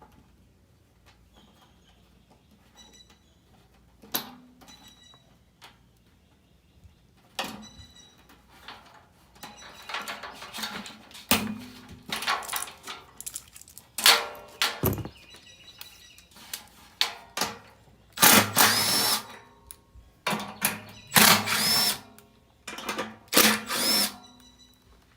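Power drill running in a series of short bursts, each spinning up in pitch and then holding, the loudest three near the end, while a furnace blower motor is being changed. Scattered clicks and knocks of tools and metal parts come in the quieter stretch before.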